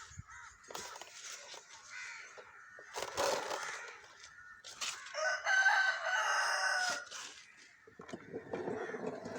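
A rooster crowing once, a single long call of almost two seconds about halfway through, with a few shorter noisy bursts before it.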